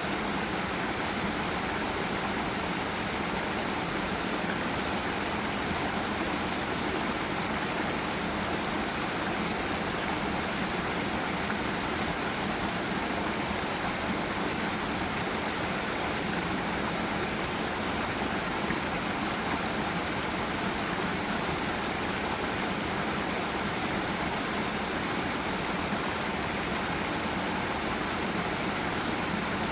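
Forest stream and small waterfall rushing, a steady even wash of flowing water.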